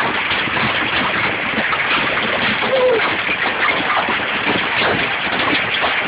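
Golf-ball-sized hailstones pelting down in a heavy hailstorm: a dense, steady clatter of countless impacts without letup.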